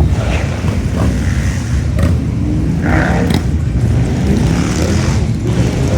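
A long procession of motorcycles rumbling past steadily, one engine revving up about halfway through.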